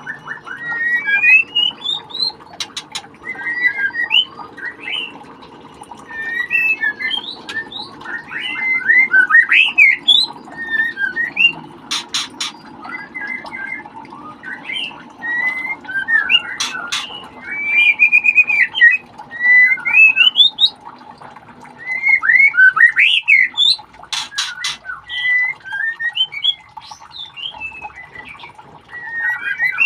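White-rumped shama calling in quick runs of short whistled chirps and rising notes, with a few sharp clicks in between.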